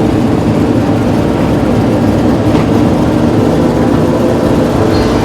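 Motor vehicle engine running steadily at a constant pitch, with a dense rumble of noise under it.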